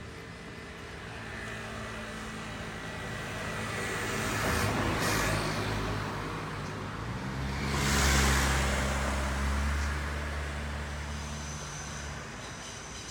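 Vehicles passing by: two swells of tyre and engine noise, the second the louder, with a steady low engine hum under it that fades near the end.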